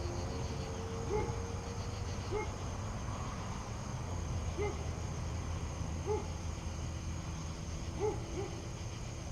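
Owl hooting: short, slightly rising-and-falling hoots repeated irregularly every one to two seconds, over a steady low rumble.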